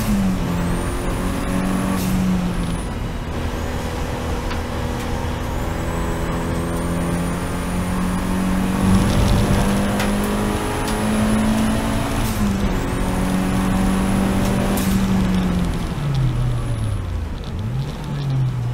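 Seat Leon race car engine under load at high revs, with brief breaks in the note at gear changes. Near the end the revs fall steadily as the car slows.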